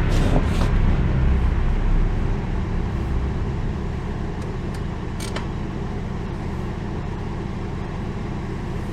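Car running, heard from inside the cabin: a low rumble that eases over the first few seconds and then holds steady, with a few faint clicks.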